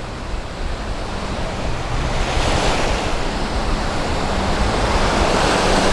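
Small sea waves breaking and washing up a sandy beach, the surf swelling about two seconds in, over a low rumble of wind on the microphone.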